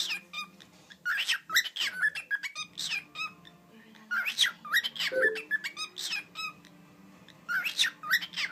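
Cockatiel chattering in squeaky chirps and short whistles, in three quick bouts with brief pauses between them.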